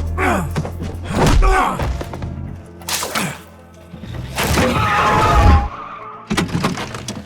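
Action-film soundtrack: dramatic score music under a string of heavy thumps and impacts, with a wavering high whine about two-thirds of the way through.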